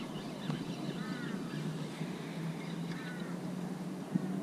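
A bird calling: short harsh calls about a second in and again about three seconds in, over a faint steady low hum.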